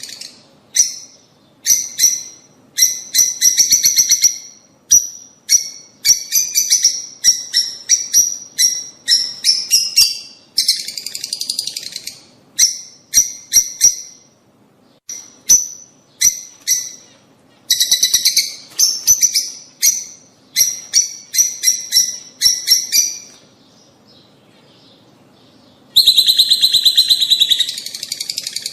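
Lovebirds chattering: rapid, high, shrill chirps in bursts, with a pause of about two seconds near the end before a dense run of chirping starts again.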